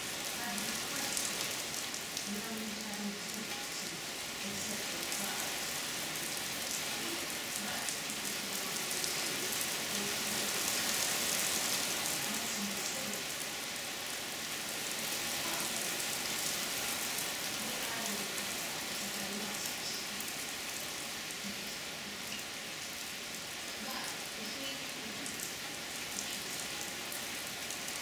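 Heavy rain falling steadily on a wooden deck and yard, an even hiss that swells a little about eleven seconds in.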